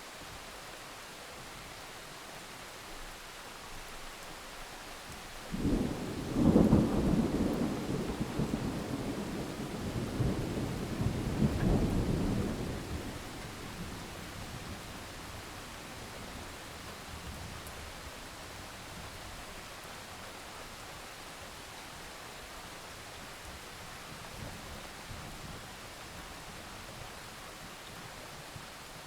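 Steady rain with a thunderclap about five seconds in that rolls on as a low rumble for several seconds, swelling again before fading away.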